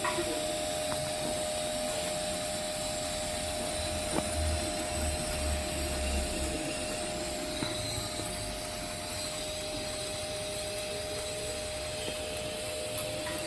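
TIG welding arc on a steel pipe joint, a steady hiss with a constant thin tone underneath.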